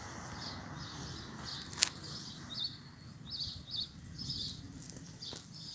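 A small bird chirping over and over in short calls, about two a second, against a quiet outdoor background. One sharp click about two seconds in.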